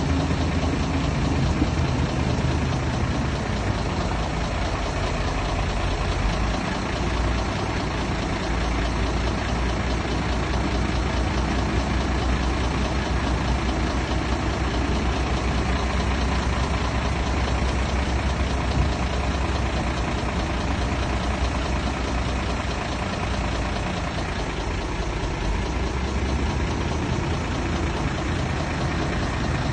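Heavy construction machine's diesel engine running steadily, a continuous low engine rumble that grows deeper and stronger through the middle stretch.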